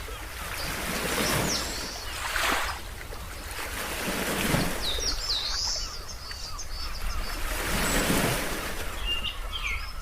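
Ocean waves washing in one after another, each swelling and falling away, while small birds chirp in short high calls in the middle and again near the end.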